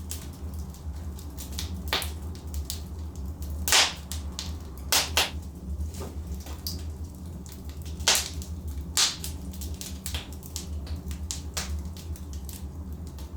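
Logs burning in a fireplace, crackling: sharp pops and snaps at irregular intervals, the loudest a little under four seconds in and about eight seconds in, over a steady low rumble.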